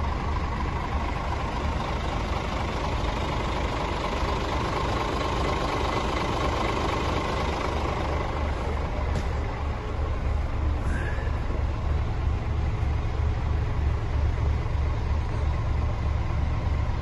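Scania P410 tipper truck's six-cylinder diesel engine idling steadily, with an even low throb.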